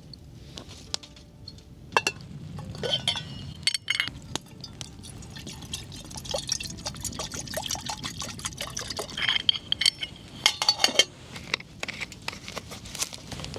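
A drink being poured into a glass, with glassware clinking and tapping.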